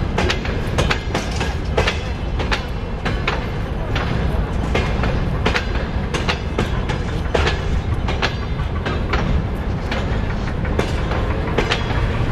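A freight train of open-top gondola wagons rolling past. Its wheels give irregular sharp clacks over the rail joints above a steady low rumble.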